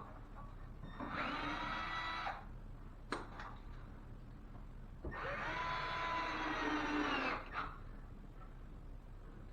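Cordless drill running twice, for about a second and then about two seconds, spinning up at the start of the second run, as it drives screws into the wood backing; a short click between the runs.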